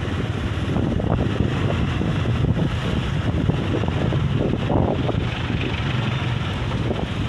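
Strong wind buffeting the microphone, a steady, dense low rumble.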